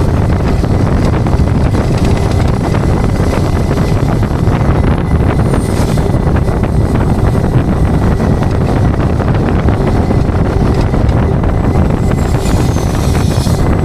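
Steady rumble of a tow truck on the road, with wind buffeting the microphone. A faint high whine falls in pitch about halfway through and again near the end.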